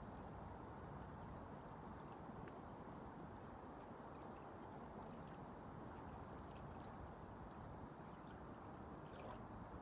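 Faint, steady rush of wind and waves, with a few short, high chirps over it.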